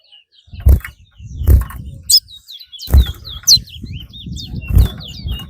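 A caged racing songbird sings a run of short, high whistled notes that bend up and down. Several loud, dull thumps come through underneath.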